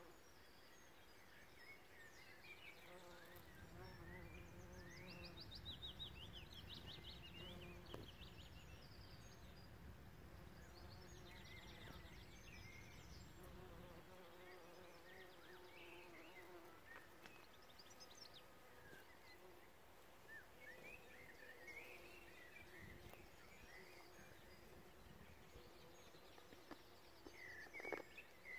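Bees buzzing among flowering field beans, a faint hum that wavers in pitch, with birds chirping and trilling throughout. A low rumble comes in about three seconds in and fades out about fourteen seconds in.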